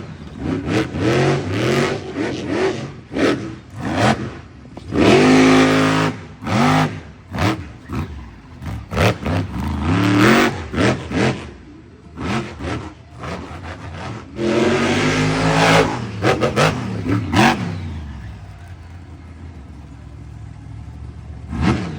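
Monster truck engine revving hard in repeated bursts, its pitch sweeping up and down again and again, with sharp knocks in between. It drops to a quieter, steadier run for a few seconds near the end before revving up again.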